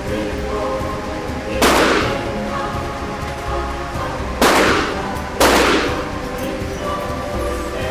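Three gunshots from an AR-15 short-barreled rifle, each with a short echo: one about a second and a half in, then two a second apart past the middle. Background music plays throughout.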